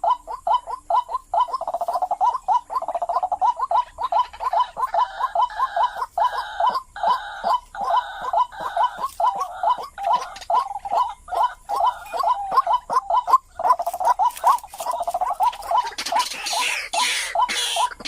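White-breasted waterhen (ruak-ruak) calling: a long, rapid series of short croaking notes, about three or four a second, the call that trappers use to lure waterhens. A hissy higher noise joins in near the end.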